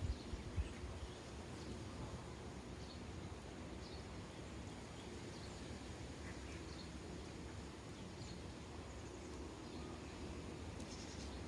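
Sparrows chirping faintly in short, scattered chirps over a steady low background noise, with a brief busier flurry of chirps near the end.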